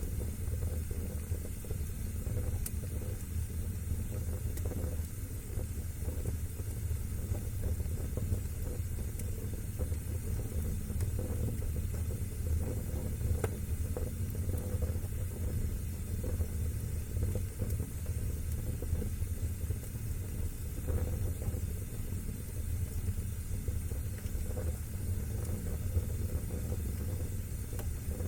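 Wood fire burning in a fireplace: a steady low rumble with a few faint, scattered crackles.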